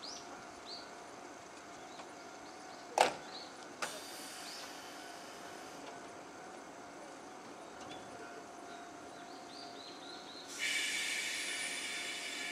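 A stopped electric commuter train at a platform: its doors shut with a single loud thud about three seconds in, followed by a smaller click. Near the end a steady hiss starts abruptly and holds, with a few short bird chirps in between.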